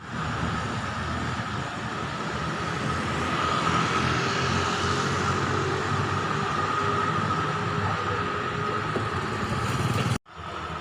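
Motor traffic passing on a town street: a steady mix of engine and tyre noise that swells about four seconds in, then cuts off suddenly near the end.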